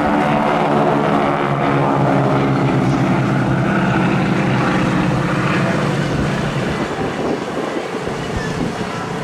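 Boeing Stearman biplanes' radial piston engines and propellers droning loudly as the aircraft fly past. The engine note sinks slightly in pitch and the sound fades over the last few seconds.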